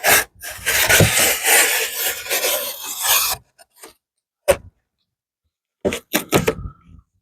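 Rough scraping and rubbing of the cardboard shipping box as it is handled and opened, lasting about three seconds, followed by a few short knocks and taps.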